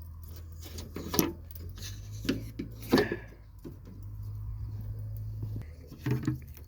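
Manual gear lever of a parked, engine-off dump truck being shoved through the gear pattern: several clunks and rattles, the loudest about three seconds in, over a steady low hum.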